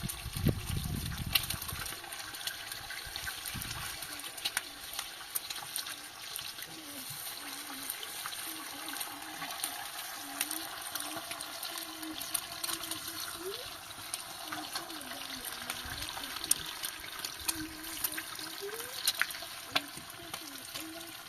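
Water running steadily, with a few sharp clicks and a low rumble in the first two seconds.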